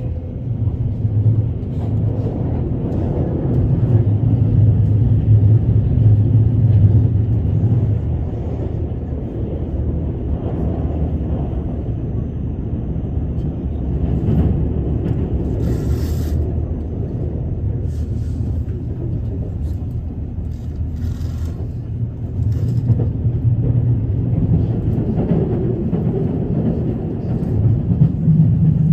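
Steady low rumble of a moving train, with a few short hisses around the middle.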